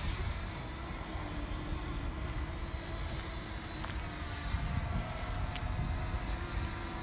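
Strong wind buffeting the microphone in an uneven low rumble, with the faint steady hum of a DJI Mini 2 drone's propellers in the air.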